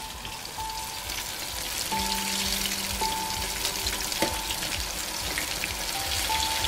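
Battered banana fritters deep-frying in hot oil, a steady sizzle. Soft background music with held notes plays over it.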